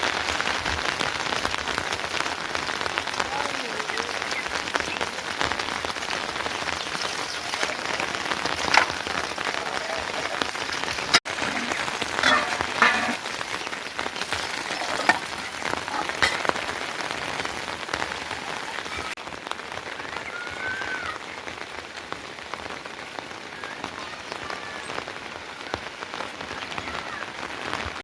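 Steady rain falling, with a few sharper taps now and then.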